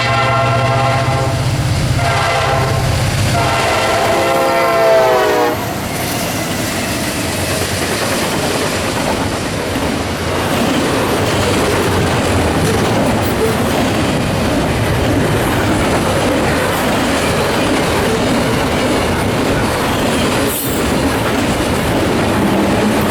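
CSX locomotive air horn sounding a multi-note chord, its pitch falling just before it stops about five seconds in. Then the train's cars roll past with a steady rumble and wheels clicking over the rail joints, with one short squeal near the end.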